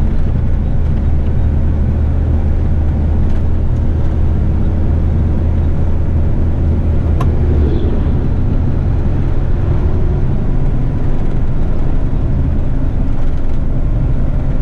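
Eight-wheeler twin-steer truck's diesel engine running steadily, heard from inside the cab, its low note shifting about eight seconds in. A single sharp click sounds just before the shift.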